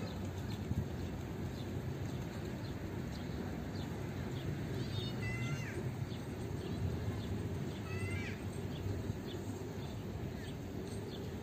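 Small birds chirping, with a quick descending trill about five seconds in and another about eight seconds in, over a steady low background rumble.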